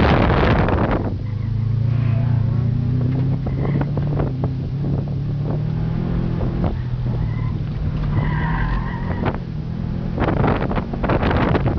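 Inside a Subaru Impreza on an autocross run: the flat-four engine pulls steadily under load, with a few brief tyre squeals as the car turns through the cones. Wind rushes on the microphone for about the first second and again near the end.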